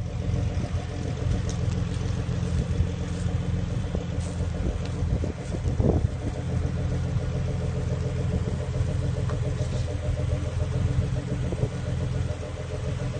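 Vehicle engine idling steadily at an even pitch, with a brief louder moment about six seconds in.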